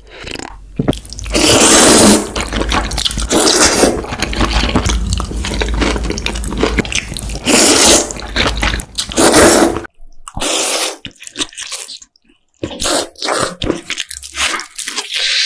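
Close-miked eating of cold noodles: long wet slurps of noodles and broth, then short chewing and slurping sounds in quick bursts from about ten seconds in.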